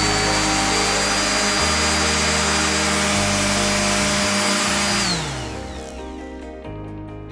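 Stanley SS30 random orbital sander running steadily with a high whine, then switched off about five seconds in, its pitch falling as the motor winds down. Background music plays throughout.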